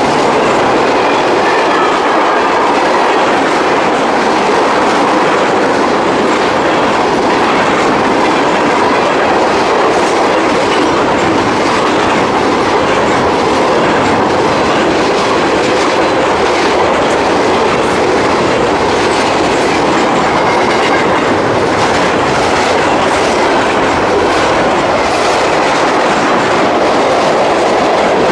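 Freight cars (autoracks, covered hoppers, a gondola and tank cars) rolling past close by at speed: a loud, steady rumble of steel wheels on rail with a clickety-clack from the wheels.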